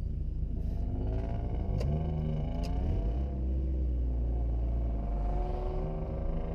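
Mazda Miata's four-cylinder engine pulling under acceleration over a deep low rumble. Its pitch climbs, drops about two seconds in, then climbs again.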